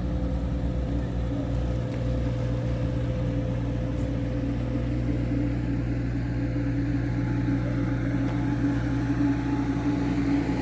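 Corvette engine running steadily as the car leaves, an even low rumble.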